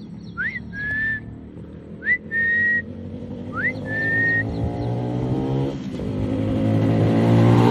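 Three whistles, each a quick upward sweep followed by a short steady tone, spaced about a second and a half apart. From about halfway in, a motorcycle engine grows steadily louder, its pitch rising.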